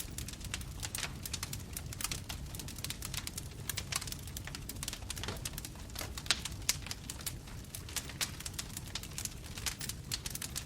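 Bonfire burning, with dense, irregular crackles and pops of burning wood over a steady low rumble of the flames.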